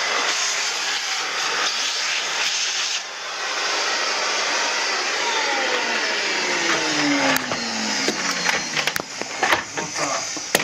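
An electric blower-type motor running with a loud, steady rush of air, then winding down with a falling whine from about halfway through. Scattered knocks and clatter near the end.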